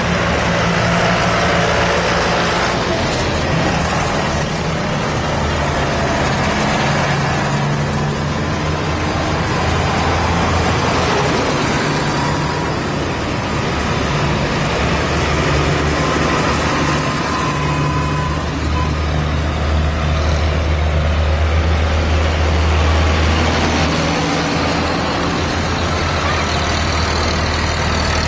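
Tractor engines running with a steady low drone, swelling louder for a few seconds past the middle.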